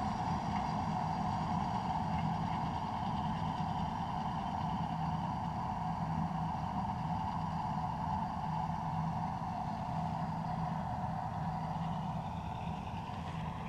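A vehicle engine running steadily at a constant speed, an even drone with no changes in pitch.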